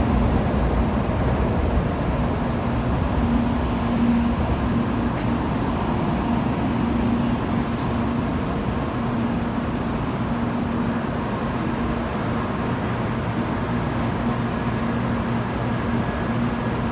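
N700 series Shinkansen train rolling slowly along the platform as it arrives and slows to a stop: a steady rumble of the passing cars that eases off gradually, with a high whine that fades out about twelve seconds in.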